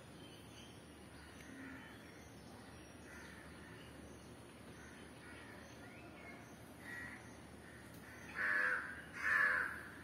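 Bird calls: two loud calls close together near the end, each about half a second long, with fainter calls earlier.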